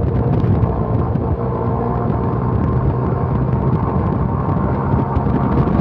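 Vehicle engine and road noise heard from inside the cabin: a steady low rumble while driving.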